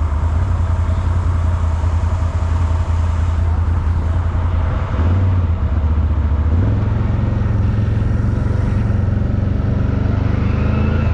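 ATV engine running under throttle. The revs step up about five seconds in and again a second or so later as it is given gas to drive the machine out of the mud it is stuck in.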